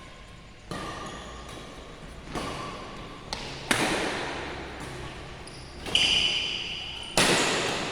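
Badminton rally: rackets smacking a shuttlecock, about six sharp hits a second or so apart, each ringing out in a large echoing sports hall.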